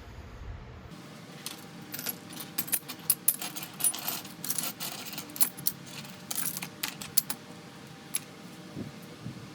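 Small metal pieces clinking and jingling against each other: many light, sharp clicks over several seconds, thinning out near the end.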